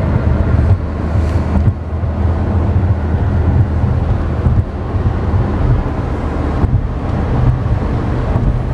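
Steady low rumble from the 2011 Chevy Volt, with wind noise on the microphone.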